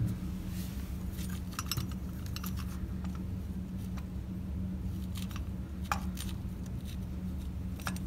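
Scattered light metallic clicks and clinks of a brass radiator valve and its fittings being handled and turned by hand on the radiator's connection, over a steady low hum.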